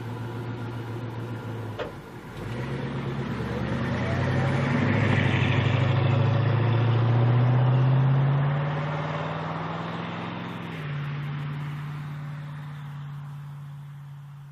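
Muscle car engine idling, then, after a sharp click, accelerating away with its note climbing and getting louder. The note steps once near the end as it fades.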